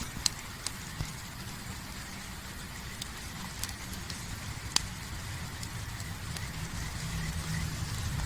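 Wood campfire crackling, with scattered sharp pops over a low steady rumble that grows a little louder near the end.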